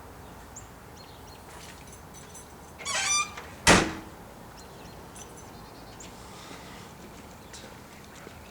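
A short, high creaking squeak, then a single hard thunk a moment later, as things are moved around.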